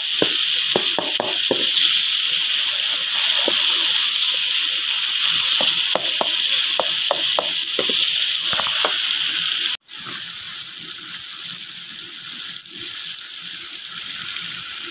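Onion and tomato masala sizzling in oil in a pot, a steady hiss, with a wooden spoon scraping and knocking against the pot as it is stirred in the first couple of seconds and again about six to nine seconds in. The sound drops out for an instant about ten seconds in, then the sizzling goes on.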